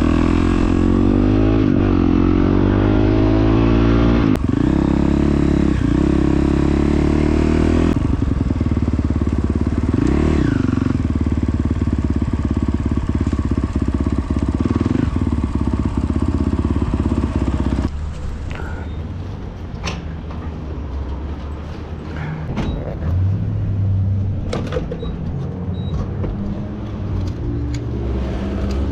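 Dirt bike's single-cylinder four-stroke engine running, with short revs about two seconds in and again about ten seconds in. About eighteen seconds in it drops to a quieter, lower sound with scattered clicks.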